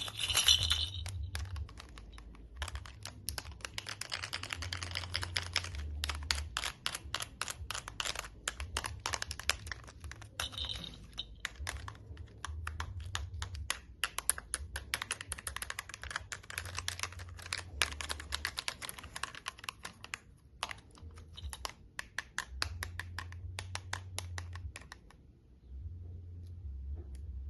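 Fast, irregular clicking of a handled sensory toy, many clicks a second like typing on a keyboard, dying away about 25 seconds in.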